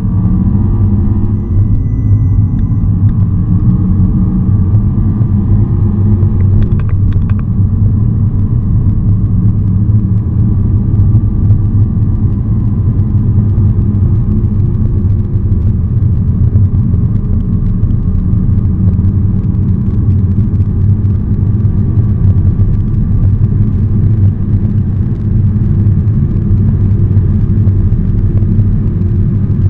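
Audi R8's V10 engine under full-throttle acceleration, heard from inside the cabin: a loud, deep roar whose pitch climbs through upshifts, with tyre and wind noise growing as the car approaches high speed.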